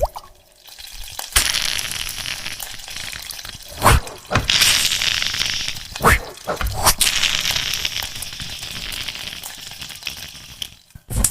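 Beatboxed mouth sound effects: a long crackling, fizzing hiss broken by a few sharp clicks, about 4, 6 and 7 seconds in, then a last click and a sudden stop.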